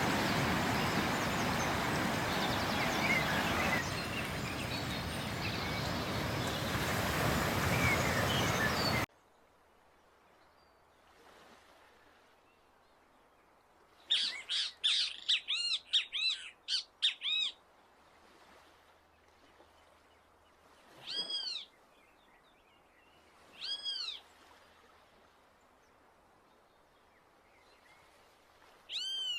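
Steady rushing surf noise that cuts off abruptly after about nine seconds. A great kiskadee then calls against quiet: a quick chattering run of harsh, ringing notes, then two single calls a few seconds apart and more calls at the end.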